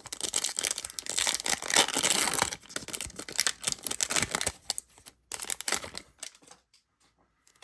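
Trading card pack wrapper being torn open and crinkled, a dense crackling for the first four seconds or so, followed by a few light handling clicks before it goes quiet near the end.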